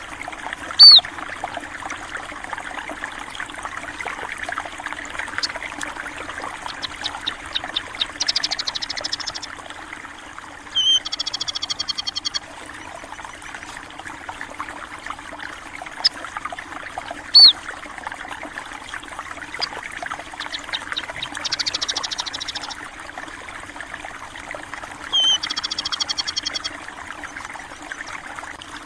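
Steady trickling of flowing water, with small songbirds calling over it. There are loud sharp single chirps near the start and at about 17 seconds, fast buzzy trills twice, and two short trilled phrases.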